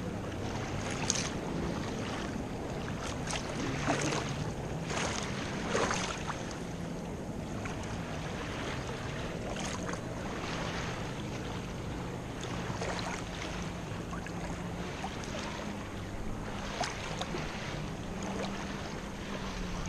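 Sea water sloshing and crackling over a steady low drone from a boat's engine, with irregular splashes, busiest in the first few seconds.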